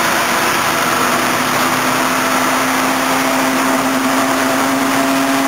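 Tomos BT 50S 49cc two-stroke single running at steady high revs through a Lipnik aftermarket exhaust and home-made silencer, its pitch held level and creeping up slightly.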